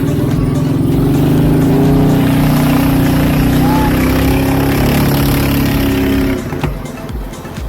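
Engine of a small river boat running steadily at speed, dropping away about six and a half seconds in.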